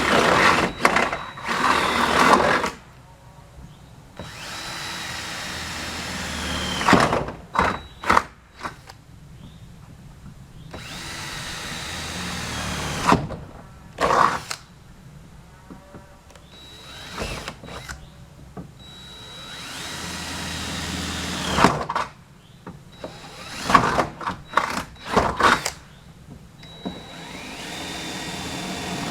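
Electric drill boring through the Ford Explorer's sheet-steel body, four runs, each growing louder as the bit bites and ending in a falling whine as the motor spins down. Short knocks and clatters of metal come between the runs.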